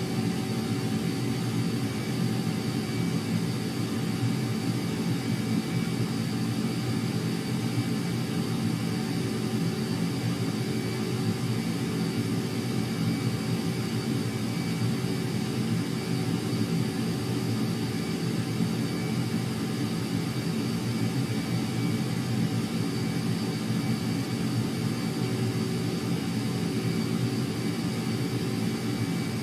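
Jet engine noise running at a constant level, a dense steady rumble with a thin high whine over it and no rise or fall.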